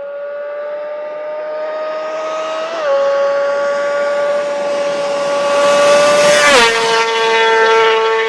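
Kawasaki Ninja ZX-25R's inline-four with a Yoshimura racing exhaust, screaming at very high revs. The pitch climbs slowly, dips briefly about three seconds in, then falls sharply about six and a half seconds in as the bike passes by at speed.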